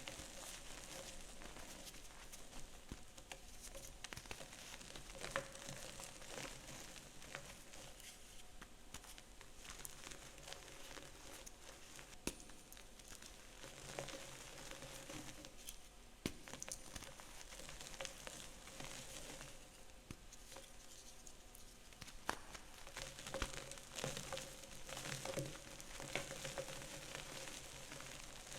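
Gym chalk being crushed and crumbled: a steady fine crackling and crunching, with sharper crunches now and then.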